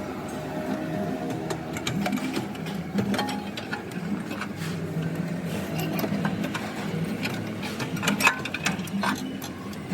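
A small machine running steadily with a low hum, with scattered mechanical clicks and knocks, a few louder ones near the end.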